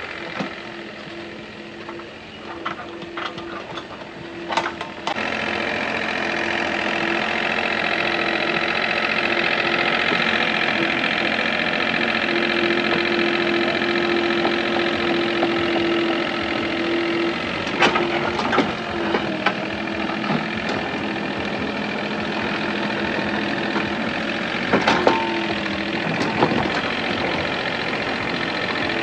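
A motor or engine running steadily with a constant hum, louder from about five seconds in, with a few sharp clicks and knocks.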